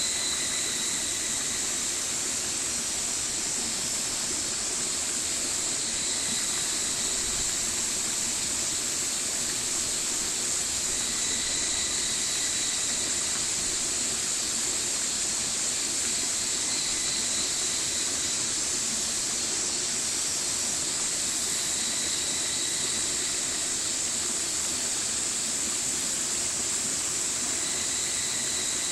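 A stream rushing steadily, an even hiss of running water that is strongest in the high register. A faint thin tone appears and fades a few times over it.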